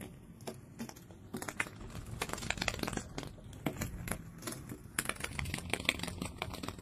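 Soft, irregular ticking and papery rustling of fluttering butterfly wings.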